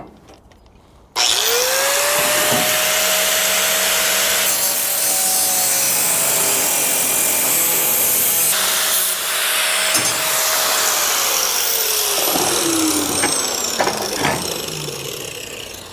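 Handheld electric power tool cutting metal: it spins up about a second in, runs with a steady whine over a harsh cutting hiss, and winds down with a falling whine near the end.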